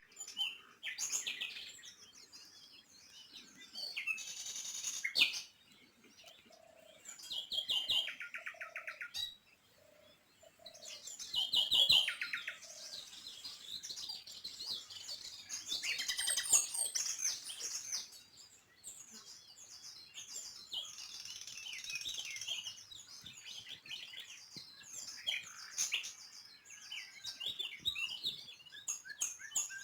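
Several small birds chirping and twittering in overlapping calls and rapid trills, with a run of short, lower repeated notes from about 7 to 13 seconds in.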